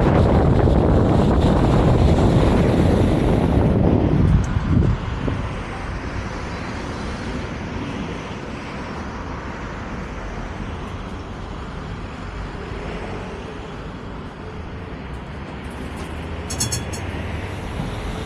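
Vario LF2R.E low-floor tram running, with steady wheel-on-rail rumble and wind on the microphone. It is louder for the first four seconds, then quieter. A short high-pitched sound comes near the end.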